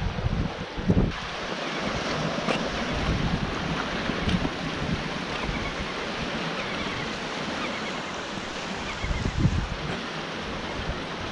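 Sea surf washing on the shore, with wind buffeting the microphone in gusts about a second in and again near the end.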